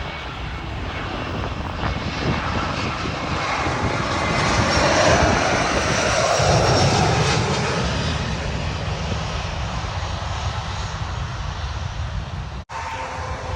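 Jet airliner passing low overhead, its engine roar swelling to a peak in the middle and then fading with a shift in pitch.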